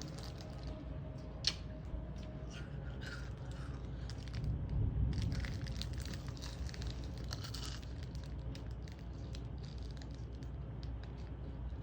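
Thunderstorm heard from indoors: a steady low rumble of storm noise that swells about four to six seconds in, with scattered crinkly, scraping clicks over it.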